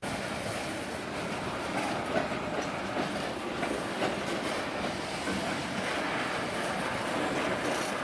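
Train cars rolling past on the track: a steady rumble of steel wheels on rail, with occasional clicks from the wheels over rail joints.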